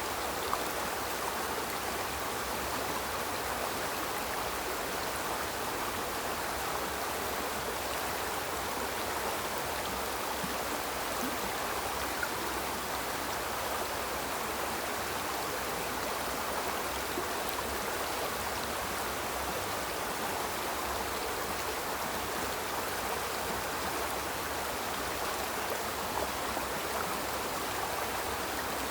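Small river flowing steadily, a constant rushing of water over rocks.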